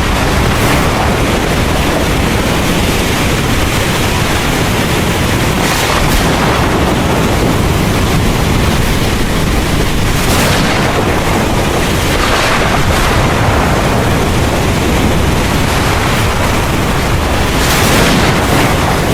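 Heavy rain pouring steadily, with thunder rumbling low underneath and a few brief surges in the hiss.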